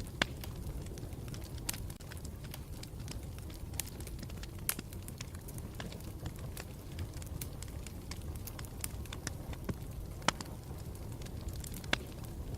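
Campfire burning: a steady low rumble of flames with sharp wood crackles and pops at irregular intervals, a few of them louder.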